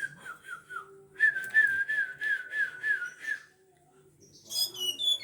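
Pet tledekan songbird calling: a quick run of repeated whistled notes, then a second run of about nine even notes, and near the end a fast series of high notes that fall in pitch.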